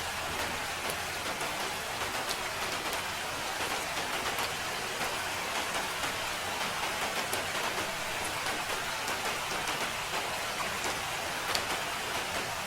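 Steady rain falling, an even hiss of rain with many individual drops ticking on a surface.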